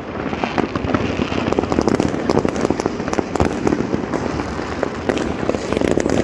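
Many fireworks going off at once from different places, a dense, unbroken run of bangs and crackling pops.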